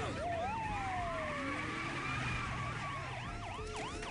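Several police sirens sounding at once, overlapping fast rising-and-falling yelps with a slower wail that sweeps down about half a second in, over a low vehicle rumble.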